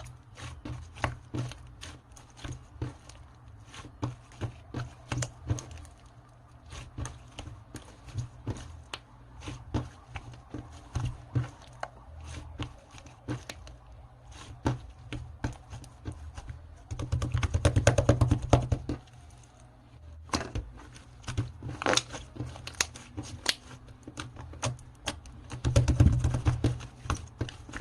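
Slime being squeezed, pressed and poked by hand, giving a steady run of small sticky clicks and pops, with two denser spells of crackling squishing around the middle and near the end.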